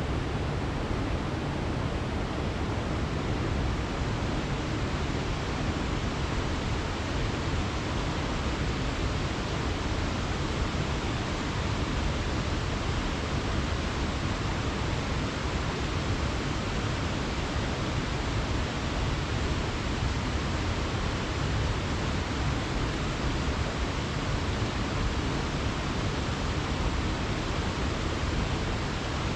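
Waterfall pouring into a plunge pool, a steady full rushing of water with no change.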